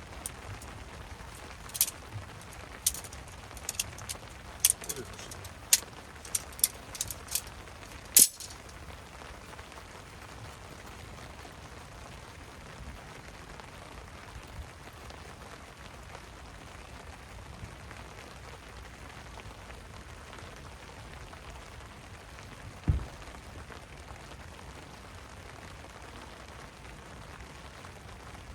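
Steady rain falling, with a run of about ten sharp clinks over the first eight seconds and a single low thump about 23 seconds in.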